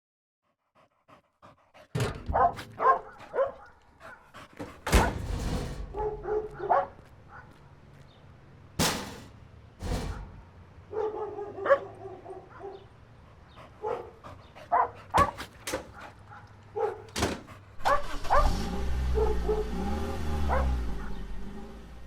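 Several dogs barking and yelping in short, repeated cries, broken by a few loud sharp knocks. A low rumble joins in near the end.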